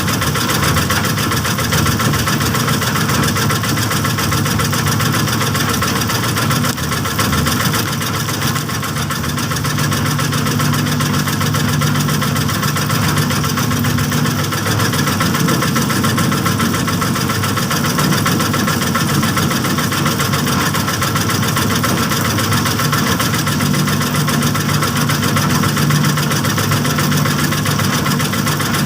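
Small engine of a bored-pile rig running steadily, with a brief dip in level about seven seconds in.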